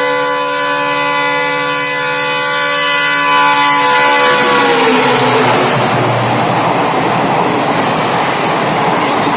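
Train horn sounding one long steady blast as the train approaches, its pitch dropping about four to five seconds in as it passes; then the loud rushing rumble of the train rolling by.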